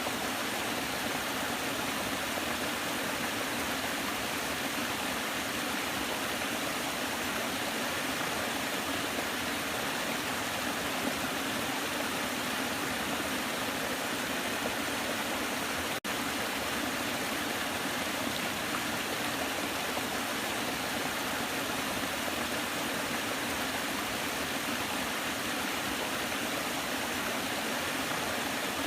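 Waterfall: steady rushing, splashing water, with one split-second dip in the sound about sixteen seconds in.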